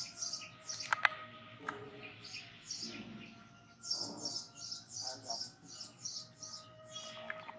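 Small birds chirping in a quick, high, repeated run, busiest in the second half, with two sharp clicks about a second in.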